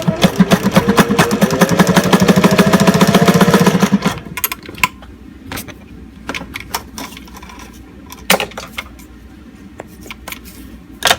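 Singer 404 Slant-O-Matic straight-stitch sewing machine, fitted with an added brass flywheel, sewing through a layer of Sunbrella canvas and clear vinyl: the motor hum rises in pitch as it speeds up, over rapid needle strokes, and stops about four seconds in. Scattered clicks and fabric handling follow, with a sharp click near the end.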